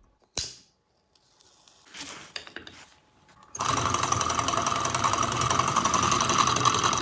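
A small home-made engine starts up about halfway through and runs with a fast, steady mechanical rattle. Before that there is a single click and a few faint handling sounds.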